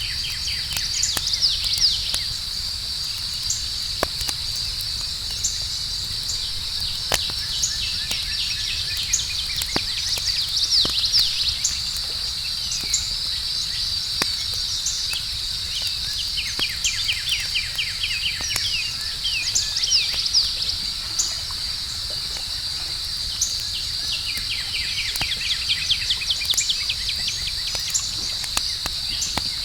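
Outdoor night ambience: crickets chirping steadily, with bird trills coming and going several times and scattered sharp crackles and pops from a campfire.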